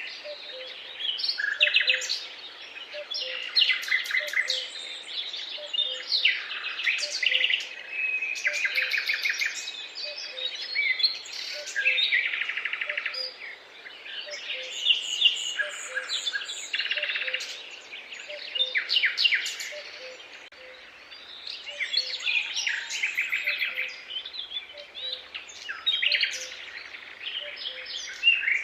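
Several songbirds singing at once, a dense run of overlapping trilled and chirping phrases. Beneath them a faint, lower short note repeats about once a second.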